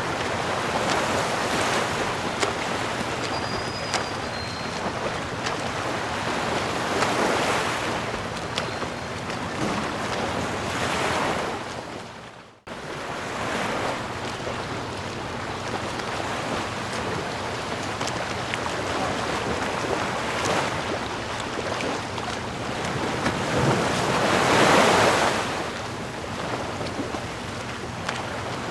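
Ocean surf: a steady wash of waves that swells and recedes every few seconds. The sound drops out abruptly for a moment about halfway through, then picks up again.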